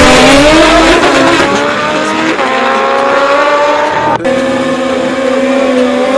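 Drag-racing motorcycle engines at full throttle down the strip. The pitch climbs, drops back sharply at each upshift (about three times) and climbs again.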